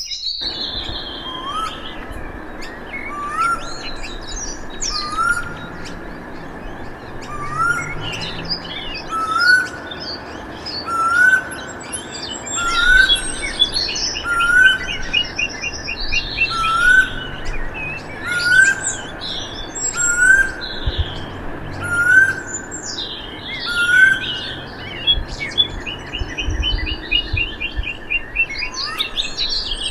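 Several birds singing and chirping. One bird repeats a short rising whistle about every two seconds, while others add high chirps and two rapid trills, over a steady outdoor background.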